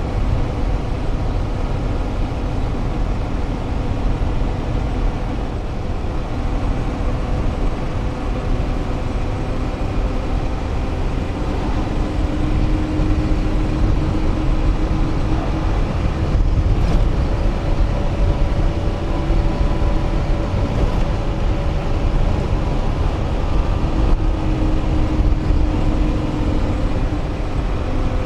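Engine and road noise inside a moving vehicle on the highway: a steady, loud rumble with an engine hum whose pitch shifts a few times.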